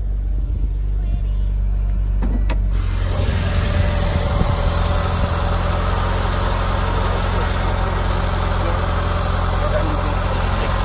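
Car engine idling with a steady low hum. Two sharp clicks come a little after two seconds in, and from about three seconds a steady rushing noise sets in over the hum.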